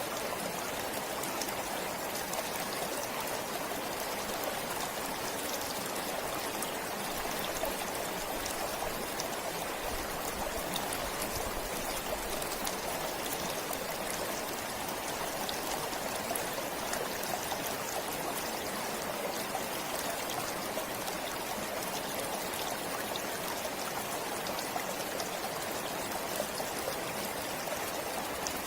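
Forest stream flowing steadily, water trickling and splashing over stones.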